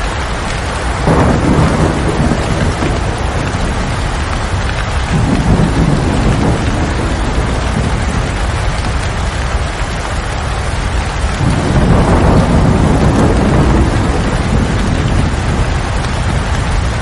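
Steady heavy rain with rolling thunder. Low rumbles swell up about a second in, again around five seconds, and longest from about eleven to fourteen seconds.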